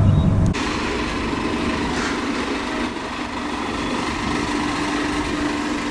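Machinery running steadily. A strong low hum stops abruptly about half a second in, leaving an even whirring noise with a steady tone that grows clearer near the end.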